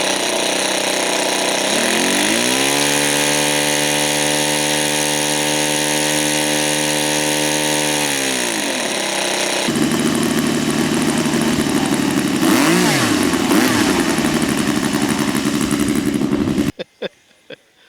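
RC model airplane's motor and propeller running under heavy wind rush: the hum climbs in pitch as the throttle opens, holds steady for several seconds, then winds down; a brief falling pitch follows as it passes, and the sound cuts off suddenly near the end.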